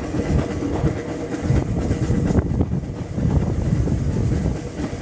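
GWR steam railmotor No. 93 on the move, heard from aboard: the carriage's steady low running noise on the track, with a few sharp clicks from the wheels and rails.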